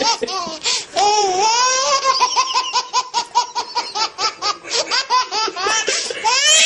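A baby laughing hard in quick, high-pitched bursts of giggles, about three or four a second, with a long sliding squeal about a second in.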